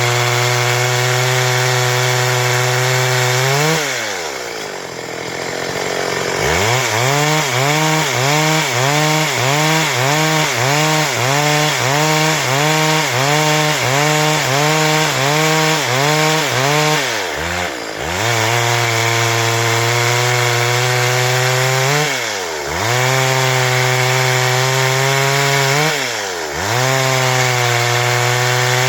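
Stihl MS 382 two-stroke chainsaw running at high revs while cutting a log lengthwise into boards. In the middle stretch its pitch rises and falls in quick regular waves as the chain bites. Several times the revs drop sharply and then climb straight back up.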